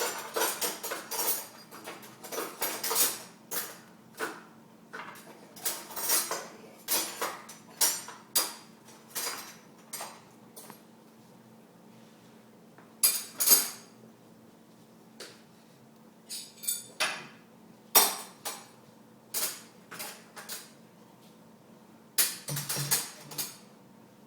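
Dishes and cutlery clinking and knocking against each other as a dishwasher is unloaded, in a string of separate clatters that come thickly at first and more sparsely later.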